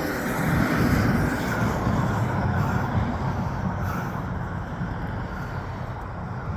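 Low rumble of road noise and wind on the microphone, swelling about a second in and slowly easing off.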